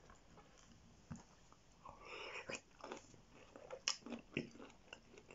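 Close-up chewing of a mouthful of chicken massaman curry with slightly crunchy carrot: quiet for the first two seconds, then a run of short, sharp crunches.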